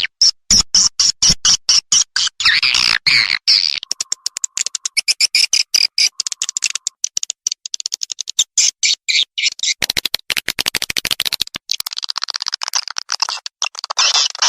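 Swiftlet lure-call recording: rapid, high-pitched chattering chirps and clicks in dense, fast-cut pulses, the pattern changing a few times. It is an edited call track played to draw edible-nest swiftlets to a bird house.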